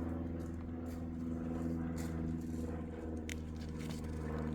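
A steady, low machine hum, with a few light clicks and rustles over it, one sharper click past the middle.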